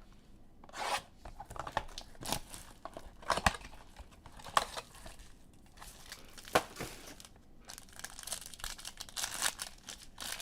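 Trading-card packaging being torn open and crinkled: a run of irregular rips and crackles as a box and its foil packs are opened, denser near the end.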